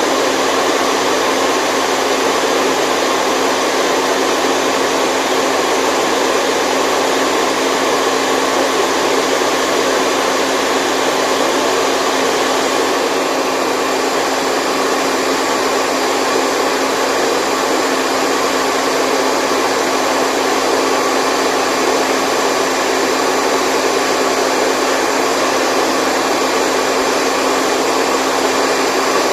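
Steady white noise: an even, unbroken hiss, loud and constant, with little deep rumble under it.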